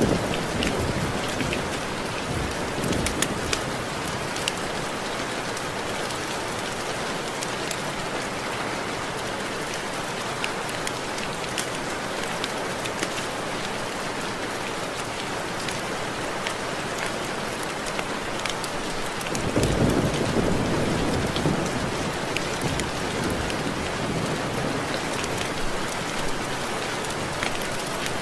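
Steady rain falling on window glass, a dense patter of raindrops with individual drops ticking against the pane. A low rumble swells about two-thirds of the way through and fades over a few seconds.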